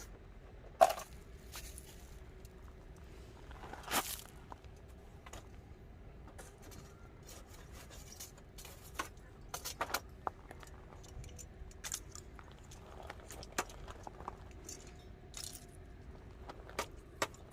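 Scattered sharp clicks, clinks and short scrapes of objects being handled, with a loud snap about a second in and a longer scrape about four seconds in.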